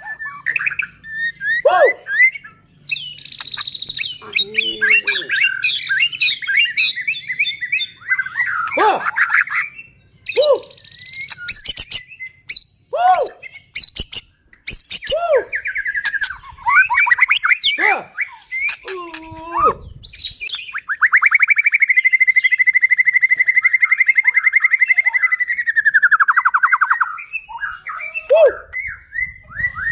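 White-rumped shama in full song: a loud, varied run of whistles and chirps, with a long rapid trill lasting several seconds about two-thirds of the way through.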